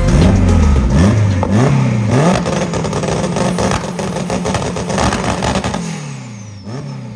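Car engine accelerating, its pitch climbing and dropping three times in quick succession, then running steadily before easing off and fading near the end.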